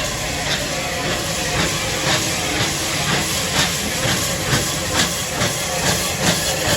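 Bulleid West Country class steam locomotive City of Wells pulling away, its exhaust beats coming about twice a second and quickening slightly over a steady hiss of steam.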